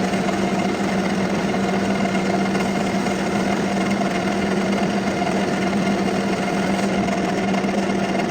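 Metal-working lathe running steadily, a constant machine hum with a low tone and a fainter higher tone above it.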